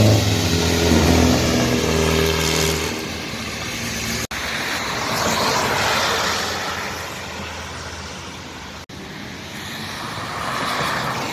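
A car engine running for the first three seconds, its pitch stepping, then cars passing on a wet road with the hiss of tyres on water swelling and fading as each goes by. The sound breaks off abruptly twice.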